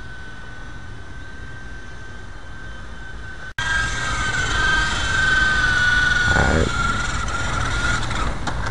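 HoneyBee FP v1 micro electric RC helicopter's main motor and rotor whining in flight. A steady high whine breaks off sharply a few seconds in, returns louder, then wavers and dips in pitch. It sounds like it's really jerking and struggling, which the owner takes for a bad bearing catching the main shaft or a dying main motor.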